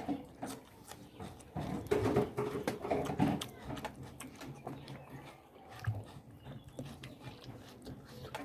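Close-miked eating sounds: irregular wet clicks and smacks of chewing and lip-smacking on mutton curry, with a few short low vocal sounds in the middle.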